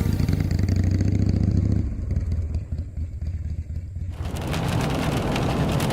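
A low vehicle rumble, then about four seconds in a steady hiss of heavy rain comes in suddenly and keeps on.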